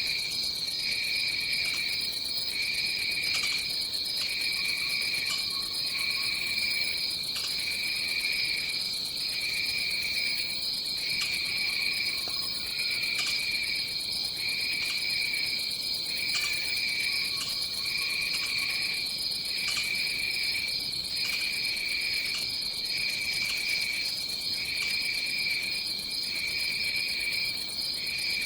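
Tropical rainforest insect chorus, crickets or similar: a steady high-pitched trill over a lower chirping that pulses about once a second. Faint short calls come through a few times.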